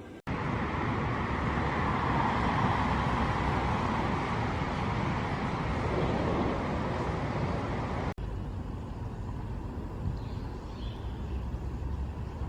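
Outdoor location sound of a steady rushing noise, loudest around two to three seconds in. It cuts off abruptly about eight seconds in to a quieter, lower rumble with a few faint high chirps.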